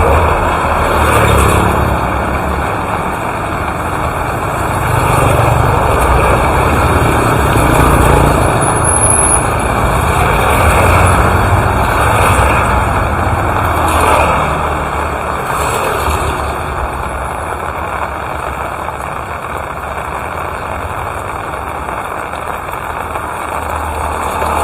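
Steady rainfall, with a low rumble that swells through the first half and eases off after about two-thirds of the way in.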